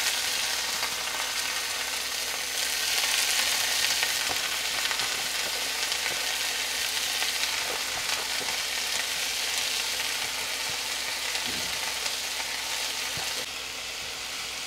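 Green gram microgreens sizzling in hot coconut oil in a frying pan as they are stirred, with faint ticks from the spoon. The sizzle is strongest a few seconds in and eases a little near the end.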